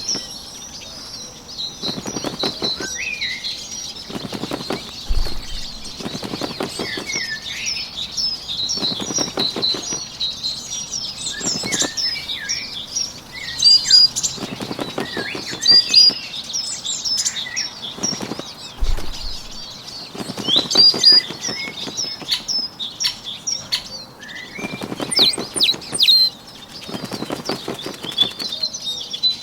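Bird wing-flapping sound effect: fluttering bursts about a second long, repeating every two to three seconds, over continuous small-bird chirping and twittering.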